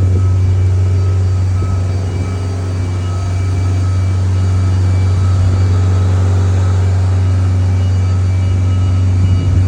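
Loud, steady low drone of running machinery, with faint steady whine tones above it.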